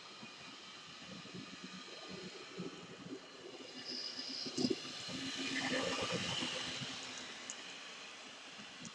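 Model train locomotive running on the layout track: a whirring rumble of motor and wheels that grows louder as it passes close by and then fades away, with a sharp click just before the loudest point.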